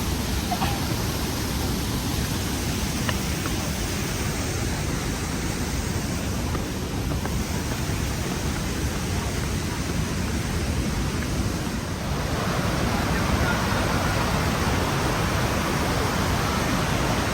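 Steady roar of the Rhine Falls, water rushing and crashing, which grows louder and brighter about two-thirds of the way through.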